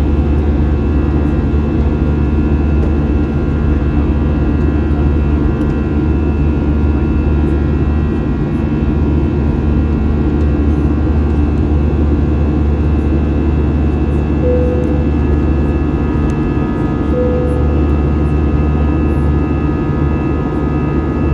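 Airbus A321's jet engines running steadily, heard inside the cabin as a constant loud rumble with a layered whine. Two short faint tones sound about two-thirds of the way through.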